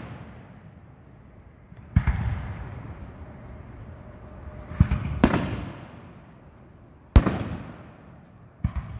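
Aerial fireworks shells bursting: five sharp booms, two of them close together near the middle, each trailing off in a rolling echo.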